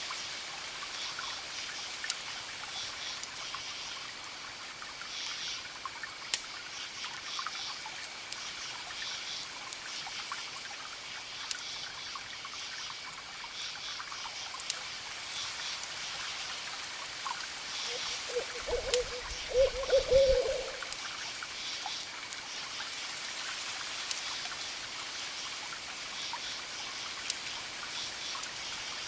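Campfire crackling with scattered sharp pops, over crickets chirping in repeated pulsed bursts and a steady high trill, with a constant wash of distant waves beneath. About two-thirds of the way through, a brief low wavering call stands out as the loudest sound.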